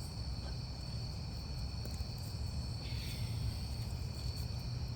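Steady insect chorus, an unbroken high trilling, over a low rumbling background noise.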